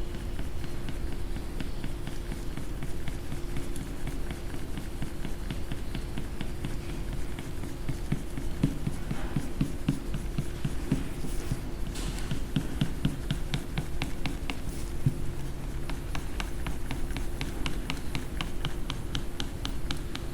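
Coloring strokes on paper: a quick run of short scratchy strokes, several a second, with a steady low hum underneath.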